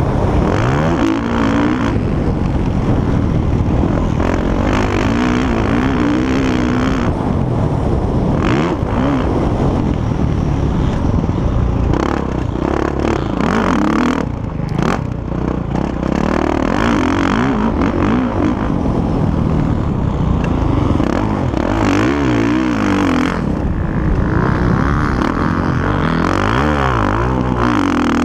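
Several motocross bikes racing, engines revving up and down as they accelerate, shift and ease off, overlapping one another. Loud throughout, with a short lull about halfway through.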